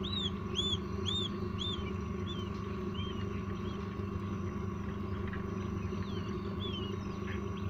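Newly hatched quail chicks peeping: a run of short, arched cheeps about two a second in the first couple of seconds, then fewer and scattered. Under them runs the incubator's steady hum.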